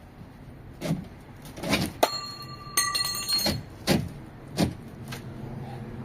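A series of knocks and clunks, roughly eight in six seconds, like work on something nailed in place. A sharp hit about two seconds in sets a metal object ringing for over a second.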